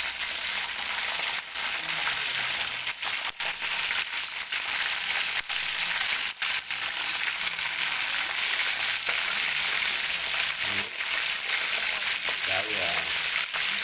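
Chicken pieces and pork belly deep-frying in a wok of hot oil, a steady hissing sizzle, while the pieces are turned with wooden chopsticks.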